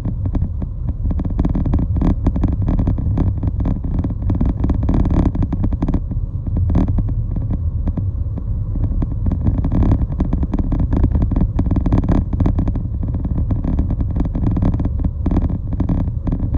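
Steady low rumble of a moving vehicle, with rapid irregular buffeting.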